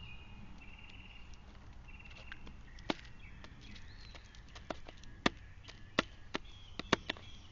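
Backyard birds: a bird pecking, with irregular sharp taps that come more often and louder in the second half. Short trilled calls repeat in the first few seconds, with thin whistled calls behind the taps.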